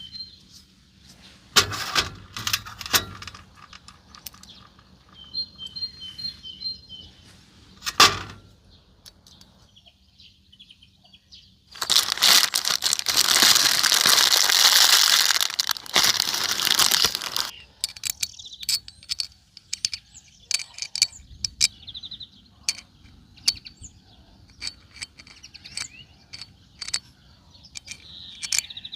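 Small metal parts being handled while a scooter carburetor is cleaned: scattered clicks and knocks, and about halfway through a loud steady hiss lasting some five seconds, like a spray or air jet on the parts. Birds chirp faintly in the background.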